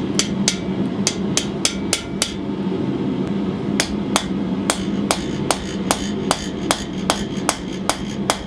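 Hand hammer striking a slitting chisel driven through a hot steel knife-guard bar on the anvil, cutting the tang slot: sharp ringing blows about two to three a second, with a break of about a second and a half partway through. A steady low hum runs underneath.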